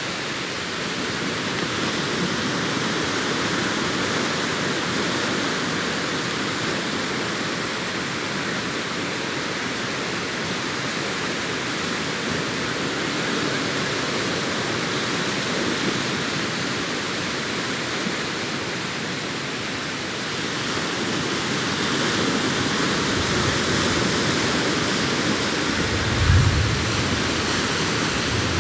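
Sea surf washing continuously onto a beach, its hiss swelling and easing as waves break. Near the end comes a brief low thump.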